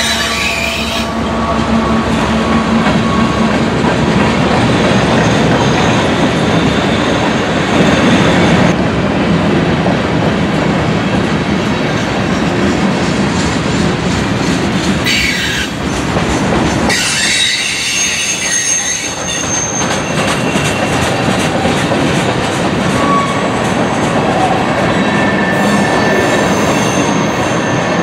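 Railroad cars rolling past with a steady rumble and wheel clatter, and high-pitched wheel squeal that comes and goes.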